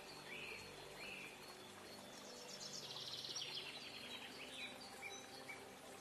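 Faint songbird calls: two short chirps in the first second, then a rapid trill of fast repeated notes from about two seconds in.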